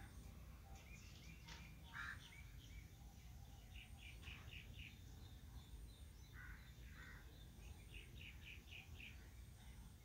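Faint birds chirping: short runs of quick, repeated high notes and a few lower single calls, over a low steady rumble.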